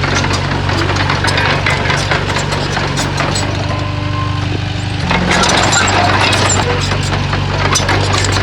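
Diesel engine of a Komatsu crawler bulldozer running steadily under a dense clatter and crackle of tracks and rock. It gets louder about five seconds in.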